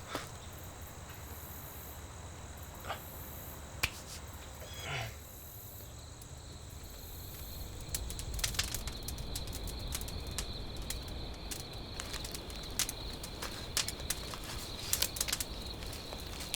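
Steady insect chirring with scattered clicks and rustles, which become busier and louder about halfway through.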